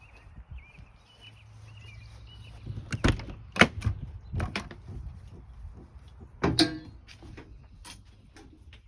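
Camper trailer door being handled: a series of clunks and knocks, the loudest with a short metallic rattle, as of a latch and door being worked.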